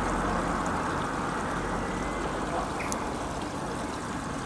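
A train passing on the narrow-gauge line, heard as a steady rushing noise with no clear beat that fades slowly as it draws away.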